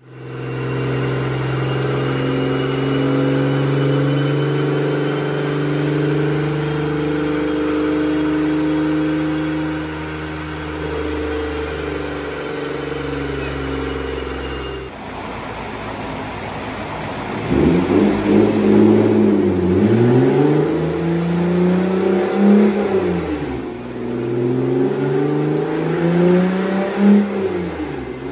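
2008 Toyota Camry's 3.5-litre 2GR-FE V6 running on a chassis dyno with its exhaust open at the Y-pipe, unbolted from the rest of the system. It first holds a steady speed with a thin whine above the engine note. Then, after a cut about halfway, it revs up and drops back three times.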